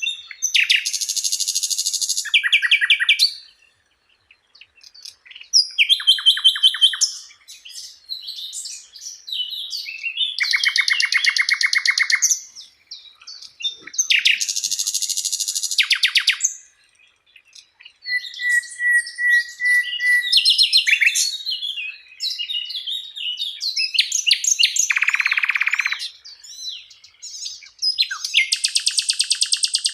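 Songbird song in phrases a few seconds long, with short pauses between them: rapid trills of repeated notes, harsh buzzy bursts, and one level whistled note a little past the middle. It is a masteran, a recorded song that Indonesian keepers play to train caged contest songbirds.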